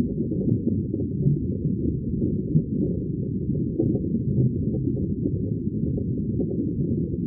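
Underwater water-bubble ambience: a dense, muffled, low bubbling rumble with no high sounds, steady and unbroken.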